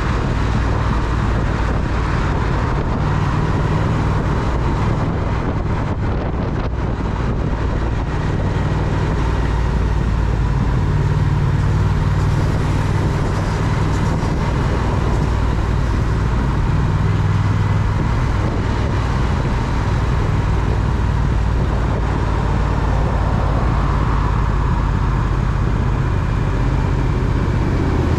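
Triumph Speed Twin's parallel-twin engine running while riding at steady road speed, with wind and road noise. The engine note shifts up and down a few times.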